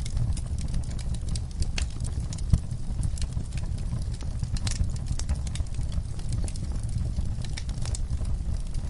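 Wood fire crackling in a fireplace: irregular sharp crackles and pops over a steady low rumble of the flames, with one louder pop about two and a half seconds in.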